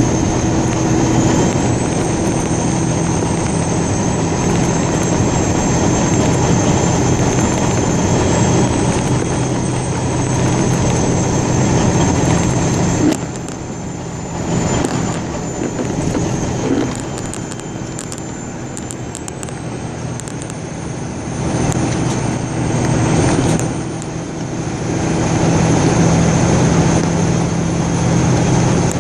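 A motor vehicle running, with a steady engine hum under broad road and wind noise. It eases off about halfway through and builds again near the end.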